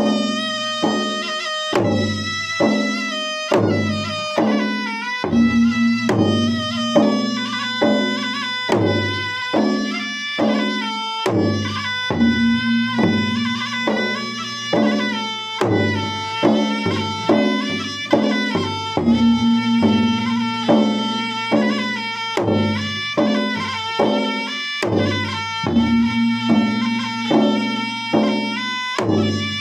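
Traditional Makassar–Bugis gendang ensemble: two-headed ganrang drums beating a fast, steady rhythm under a sustained puik-puik reed-pipe melody.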